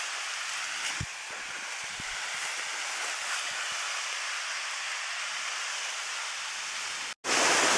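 Steady rushing of a waterfall heard from a distance, with a few soft knocks. Near the end it cuts out briefly and comes back louder.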